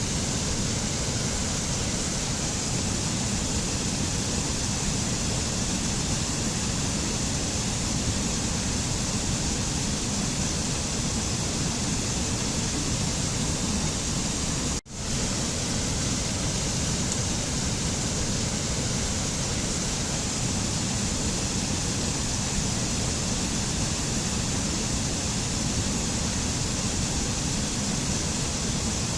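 Steady, unbroken rush of a waterfall's falling water. It cuts out for an instant about halfway through, then resumes.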